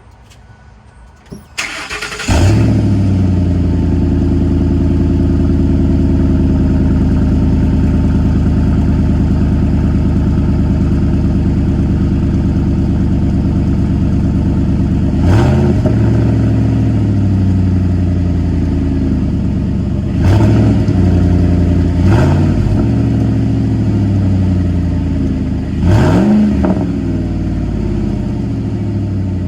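2004 Ford F-150's 5.4-litre three-valve V8 with a muffler delete, cranking briefly and firing about two seconds in. It settles into a loud idle that slowly drops in pitch, then takes four short throttle blips.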